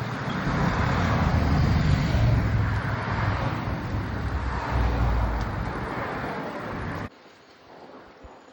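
Wind and road noise from a moving bicycle ride: a loud rushing noise with a heavy low rumble that cuts off abruptly about seven seconds in, leaving a much quieter hush.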